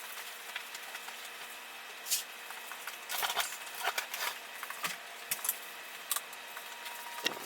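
Scattered light clicks, rattles and rustles over a steady hiss: pieces of a sectional couch being handled as it is taken apart.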